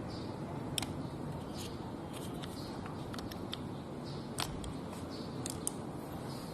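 A handful of short, light clicks and taps, as of hard plastic and metal parts being handled, scattered irregularly over a steady low background rumble.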